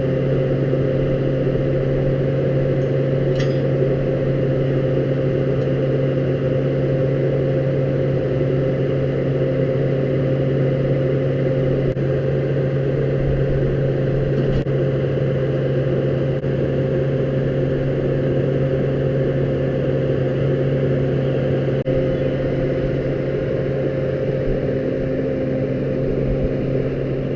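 Tractor engine running at a steady speed, a constant even hum with no change in pitch.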